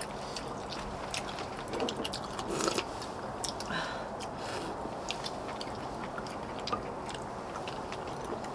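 Close-up eating sounds of spicy braised monkfish: chewing and biting, with many small sharp clicks scattered throughout.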